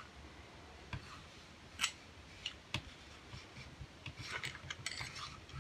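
Faint handling sounds of gun-cleaning work on a derringer barrel: a few light, separate clicks, and a short stretch of rubbing near the end.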